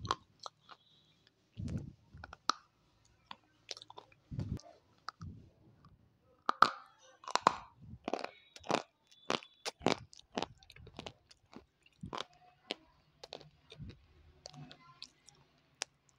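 Close-miked crunchy bites and chewing, with many sharp irregular crunches and a few duller chomps.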